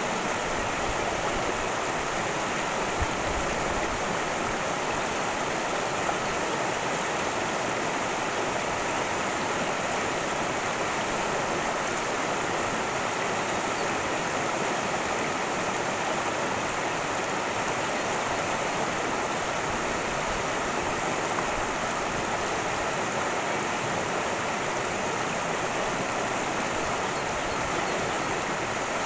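A cascading mountain stream: water rushing steadily in an even, unbroken flow.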